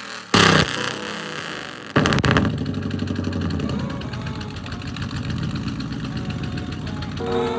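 Truck engine revved in two short bursts, then settling to a steady idle.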